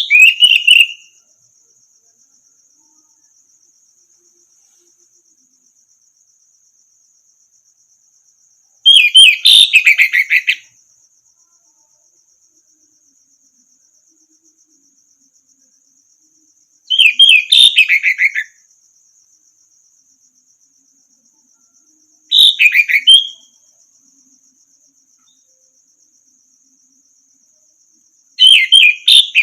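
Orange-headed thrush (anis merah) singing short, loud, whistled phrases, one every five to eight seconds, over a steady high trill from an insect such as a cricket.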